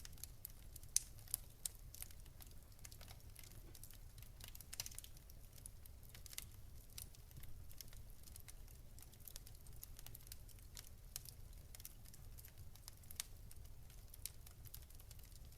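Wood fire crackling faintly, with irregular sharp pops and snaps, a few louder ones about a second in, over a steady low rumble.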